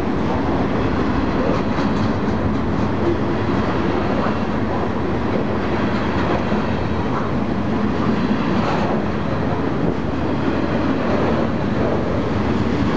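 Loaded freight train of trash-container cars rolling past close by: a steady, loud rumble of steel wheels on the rails with faint rhythmic clatter over the track joints.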